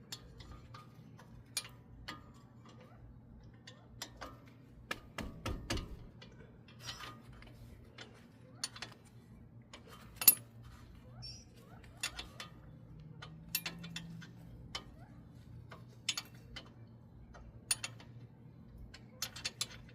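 Irregular light metallic clicks and knocks from hand tools and brake parts as a disc-brake caliper is fitted back over the pads, with a faint steady hum underneath.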